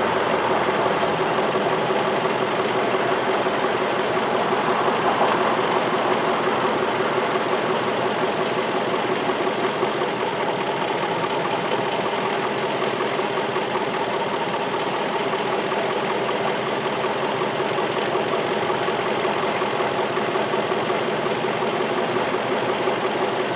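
2003 Infiniti M45's V8 idling steadily, an engine logged with a P0300 random-cylinder misfire code.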